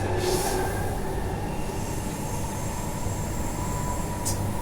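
Inside an A-series electric suburban train on the move: a steady rumble of wheels and running gear, with a faint steady high tone setting in after a second or so and two short hisses, one about half a second in and one near the end.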